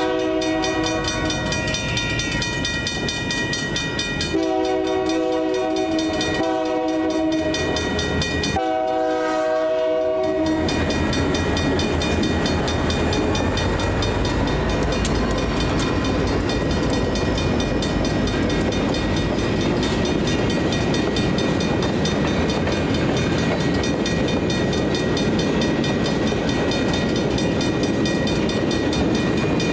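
Locomotive horn of a Union Pacific freight train, led by an EMD GP40P-2 and an EMD GP60, sounding a chord in several blasts through the first ten seconds or so. The train then passes the grade crossing with a steady rumble and wheel noise while the crossing's mechanical bell rings.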